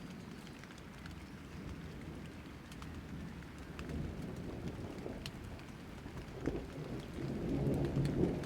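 Rain falling with a low rolling rumble of thunder that swells near the end, and scattered drops ticking.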